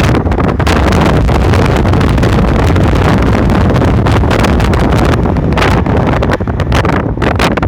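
Loud wind buffeting the microphone of a moving car, with the car's road noise underneath; it eases near the end.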